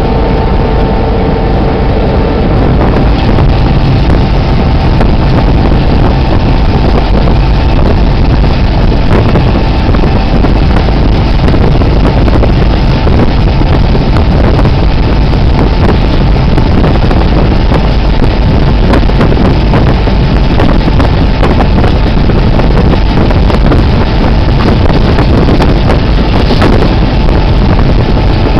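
Steady loud running noise of a moving train heard from an open locomotive platform: a low rumble of the locomotive and wheels on the rails, with wind buffeting the microphone. A faint steady whine fades out about three seconds in.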